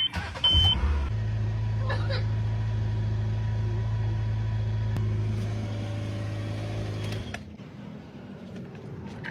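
Car engine starting and running at a steady idle, then shut off about seven seconds in. A short beep is heard as it starts.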